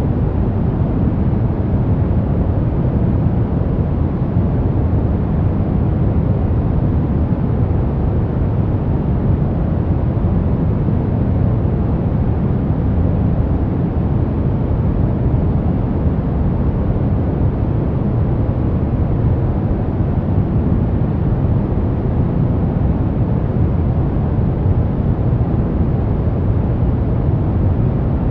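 White-noise track for baby sleep: a steady, deep rushing noise that never changes or pauses.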